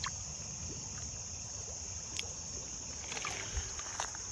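Steady high-pitched chirring of crickets and other insects, with a few faint clicks and a soft rustle.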